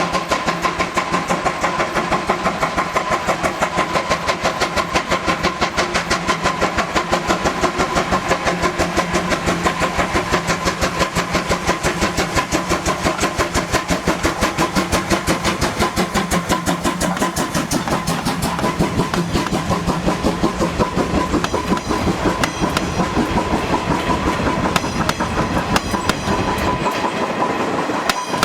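Moka Railway's C12-class steam locomotive working past, its exhaust beating in fast, even chuffs throughout.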